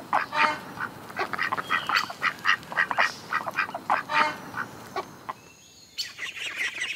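Ducks quacking in short calls repeated in quick succession. The calls die away for about a second near the five-second mark, then a busier run of quick calls starts near the end.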